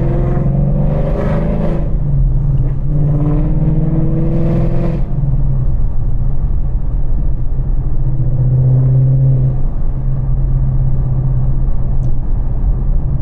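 Ford Mustang GT (S650) 5.0-litre V8 exhaust through Kooks longtube headers, rising in pitch as it accelerates twice in the first five seconds, then running at a steady cruise.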